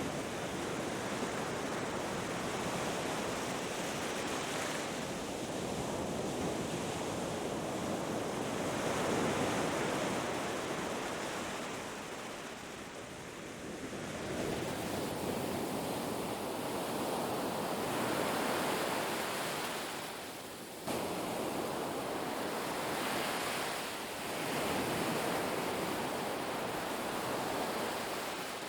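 Ocean surf breaking and washing on a beach: a continuous rush that swells and eases every few seconds, with a sudden louder surge about two-thirds of the way through.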